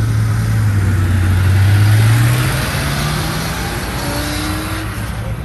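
A car accelerating past, its engine note climbing steadily and loudest about two seconds in, then easing off.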